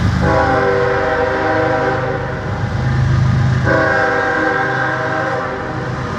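Norfolk Southern diesel freight locomotive sounding its air horn in two long blasts, about two seconds each, with the locomotive's engine running underneath. This is a grade-crossing warning as the train approaches a road crossing.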